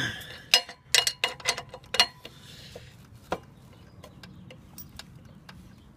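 Sharp metallic clanks and knocks, about eight in quick succession over the first two seconds, then a few lighter ticks. The sound is of a wrench being forced hard on a lawn mower's blade bolt to tighten it.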